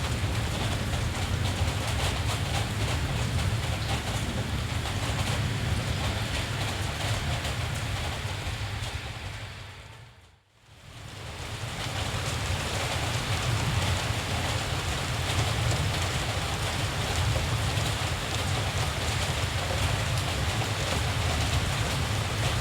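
Steady rain with a low rumble underneath. About halfway through, the sound fades out to near silence and then fades back in.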